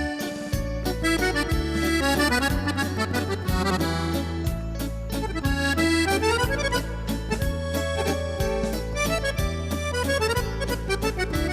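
Accordion music with a steady bass rhythm.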